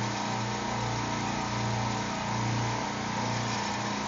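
Steady machine-room drone of the supermarket rack's other refrigeration compressors running, a low hum that swells and fades about once a second over a constant hiss.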